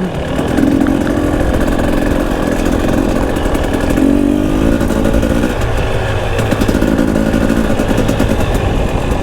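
Enduro dirt bike engine running on a trail ride, its revs rising and falling with the throttle; the engine note drops lower about five and a half seconds in.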